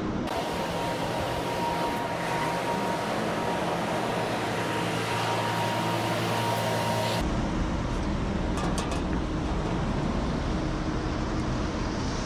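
Steady engine running, with a thin steady whine over it until the sound changes abruptly about seven seconds in.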